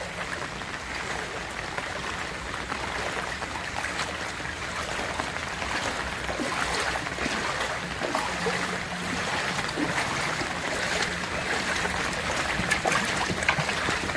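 Floodwater flowing in a steady, even rushing noise.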